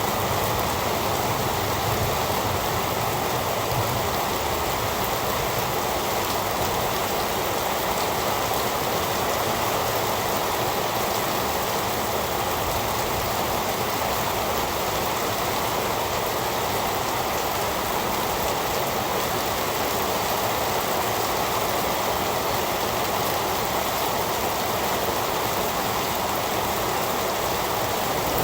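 Heavy rain falling steadily: a dense, even hiss with no breaks, swells or thunder.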